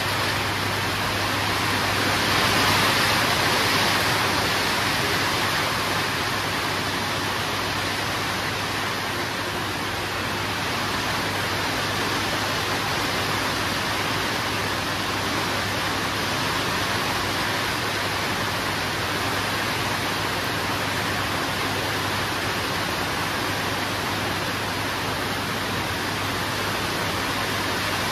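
Heavy rain pouring steadily as an even hiss, swelling a little about three seconds in.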